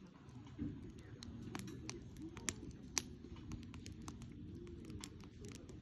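Campfire wood crackling, with sharp irregular pops, two of them louder about two and a half and three seconds in, over a steady low rumble.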